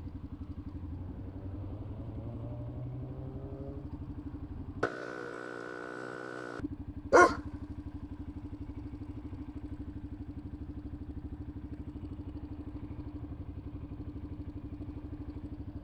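Motorcycle engine running, its pitch climbing during the first few seconds and then settling into a steady, pulsing idle. A louder stretch of sound comes in about five seconds in and lasts under two seconds, with a short sharp sound about seven seconds in.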